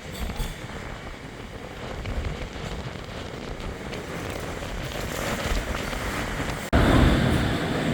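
Rumbling vehicle noise at a railway level crossing, with wind on the microphone. It builds slowly, then cuts abruptly near the end to a much louder rumble.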